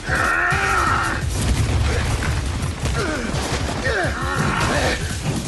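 Action-scene soundtrack: music mixed with mechanical and impact sound effects, dense and continuous, with pitch glides throughout.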